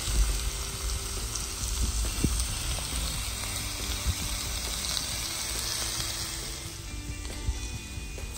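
Chicken breasts sizzling in a cast-iron grill pan: a steady frying hiss that thins out near the end. Background music plays underneath.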